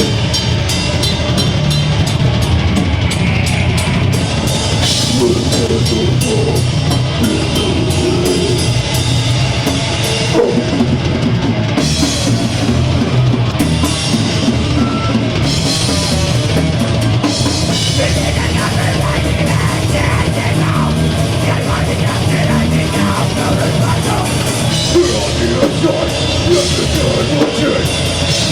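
Deathgrind band playing live: fast, dense drums, distorted guitar and bass, loud and unbroken.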